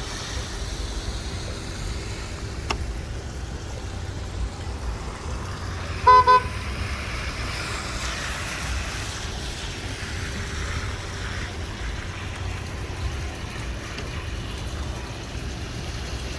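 A vehicle horn gives two short toots in quick succession about six seconds in, over a steady low background rumble.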